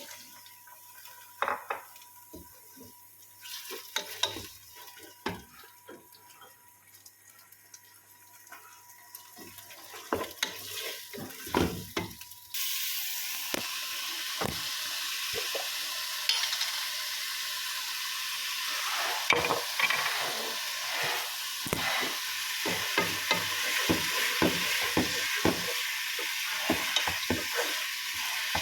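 Utensils clinking and knocking against a pan, then a sudden loud sizzle about twelve seconds in as food starts frying in hot oil. The sizzling runs on steadily while a spatula knocks and scrapes, stirring the pan.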